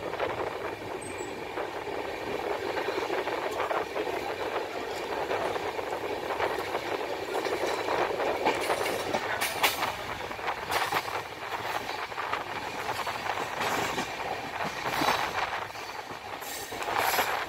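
Indian Railways passenger coach running on the track as the express pulls out of the station: a steady rolling rumble with wheels clacking over rail joints. The clacks come more often from about halfway through as the train gathers speed.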